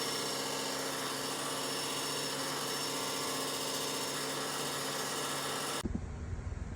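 Electric fireplace heater's fan running: a steady airy whir with a low electrical hum under it, which cuts off abruptly near the end.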